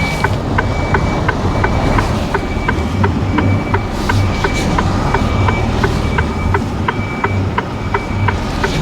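Lorry reversing alarm beeping about once a second over a diesel engine's low hum, with a faster run of short ticks alongside.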